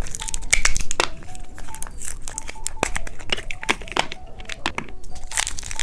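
Crinkly plastic candy wrapper being handled and torn open, with many light, irregular clicks and taps of hard plastic pieces.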